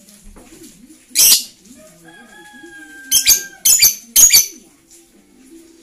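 Pet lovebird giving sharp, shrill chirps: one about a second in, then three in quick succession between about three and four and a half seconds in.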